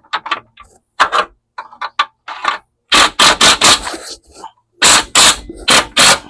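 Cordless impact gun hammering a 3/8 bolt home in short trigger bursts, after a few light clicks and scrapes of the bolt and washer being set in place.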